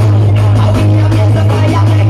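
Loud music played through a large carnival sound system, with a heavy, steady bass.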